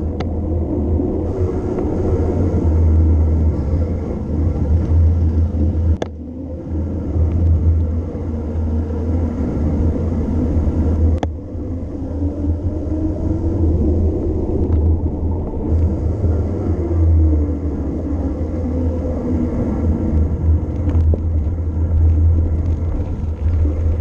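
Heavy low rumble of wind buffeting a bike-mounted camera's microphone on a fast mountain-bike descent, with sharp breaks about 6 and 11 seconds in.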